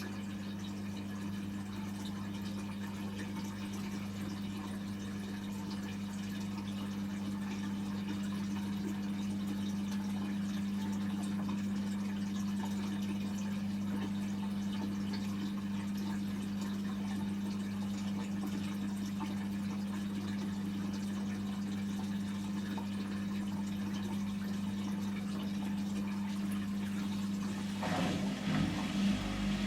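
Samsung Series 5+ washing machine in its final spin phase: the drain pump hums steadily as water runs out through it. Near the end a new, louder motor sound comes in as the drum starts to pick up speed.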